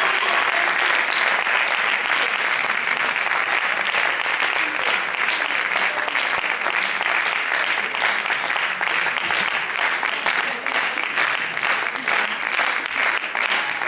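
Audience applauding. The dense clapping thins in the second half, so single claps stand out.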